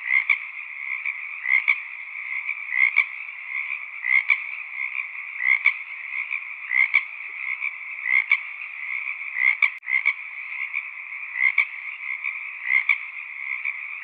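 Frog chorus: a steady dense trilling with a louder call repeating roughly every second and a half. A brief dropout comes about ten seconds in.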